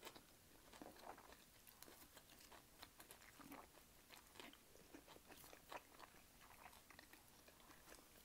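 Faint chewing of food, with short, irregular mouth clicks.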